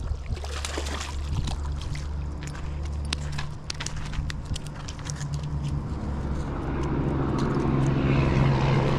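Steady low engine drone that grows louder over the last few seconds, with scattered small clicks and knocks during the first few seconds.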